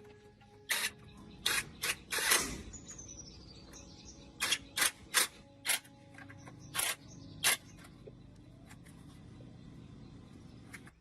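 An irregular series of about a dozen short, sharp clicking and hissing bursts, the loudest and longest a little over two seconds in, with a faint steady hum beneath.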